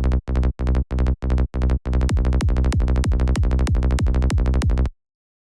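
Electronic kick drum and synth bass playing a fast, evenly repeating pattern of punchy low notes, each opening with a quick downward pitch sweep. For about two seconds the hits are separated by short gaps, then they run together. The pattern cuts off abruptly near the end.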